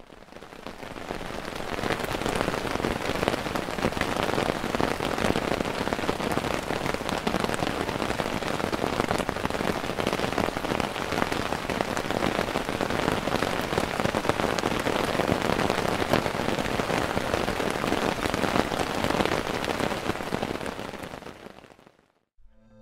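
Steady rain falling, a dense patter of drops that fades in over the first couple of seconds and fades out near the end.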